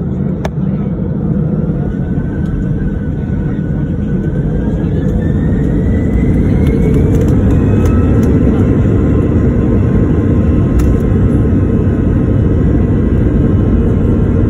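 Airliner engines powering up for takeoff: a steady heavy rumble with a whine that rises in pitch over several seconds, growing louder about six seconds in.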